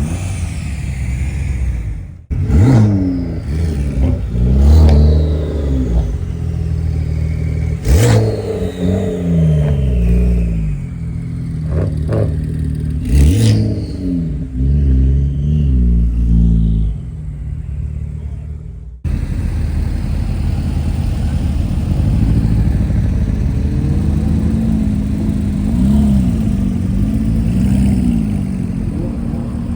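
Car engines revving up and falling back repeatedly, with a couple of sharp cracks. The sound changes abruptly twice, as if from one car to another.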